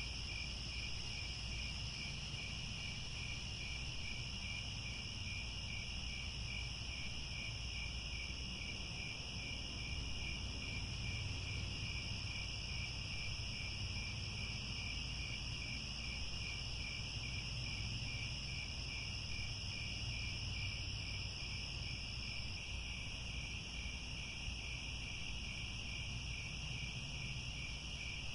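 A chorus of crickets chirping steadily, several high-pitched trills at once, one with an even pulsing beat, over a low steady rumble.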